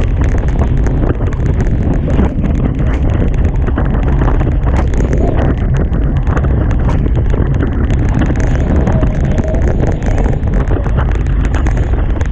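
Heavy, steady wind noise buffeting the microphone on a Hobie Tiger catamaran sailing fast in about 30 knots of wind, with water rushing and splashing along the hulls.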